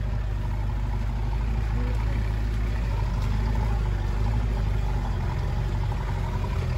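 Land Rover 4x4 engine running steadily, a deep, even drone.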